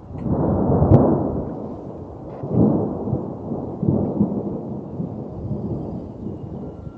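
Low rumble of a windy thunderstorm, swelling about a second in and again near three and four seconds in, then easing off.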